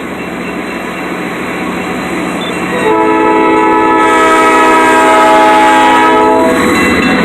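Freight locomotive's air horn sounding one long chord of several tones, starting about three seconds in and lasting about three and a half seconds, as the warning for the grade crossing. Under it the rumble of the approaching train grows louder.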